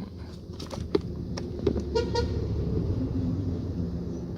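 A motor vehicle running with a low hum, its horn giving two short beeps about two seconds in, with a few sharp clicks just before.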